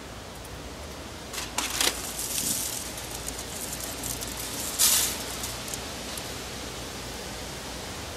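Steady background hiss with two brief crinkles of aluminium foil: one about a second and a half in and a louder one near five seconds in.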